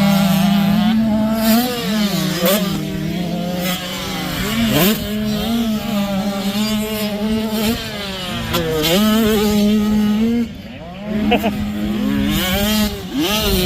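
Dirt bike engine running hard on a motocross track. Its pitch dips and climbs back up about four times as the throttle is rolled off and opened again, with a brief drop in level shortly before the end.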